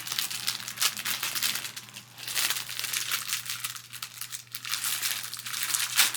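Packaging crinkling and rustling as it is handled and torn open by hand, in a rapid irregular crackle.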